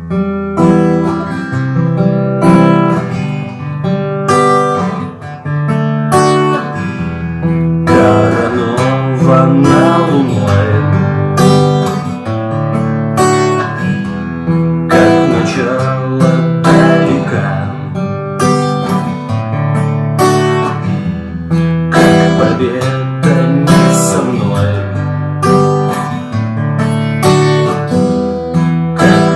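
Acoustic guitar playing an instrumental introduction, strummed chords with a regular stroke about twice a second.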